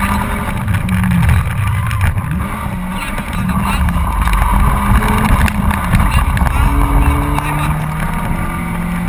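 Honda Civic 1.3's four-cylinder engine heard from inside the cabin under hard driving, with heavy tyre and road rumble. The engine note drops about two seconds in as the car slows to turn, then climbs again as it accelerates away.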